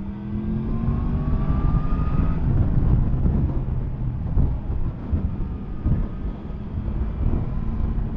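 Yamaha MT-10 SP motorcycle's crossplane inline-four engine accelerating, its pitch rising over the first two seconds or so, then running on as a steady low rumble under way.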